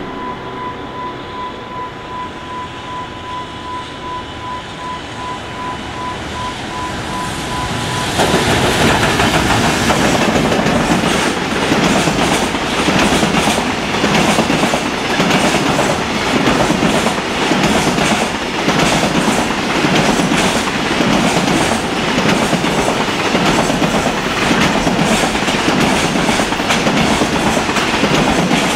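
JR Freight EF210 electric locomotive and its container wagons passing through a station at speed. For the first eight seconds the approaching train rumbles and grows louder while a high electronic tone beeps steadily. Then the train goes by close with a loud rumble and a regular clack of wheels over rail joints about once a second.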